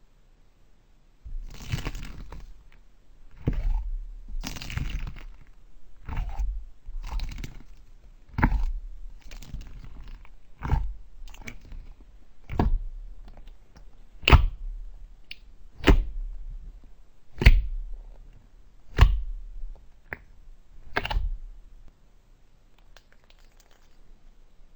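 Slime being pressed and squeezed by hand, giving a sharp crackle or crunch about every second and a half, over a dozen in all; the first few are drawn out and the later ones short and snappy.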